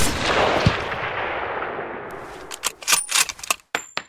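A single loud bang that rings out and dies away over about two and a half seconds, followed by a quick run of sharp metallic clicks and clacks with a brief high ring near the end.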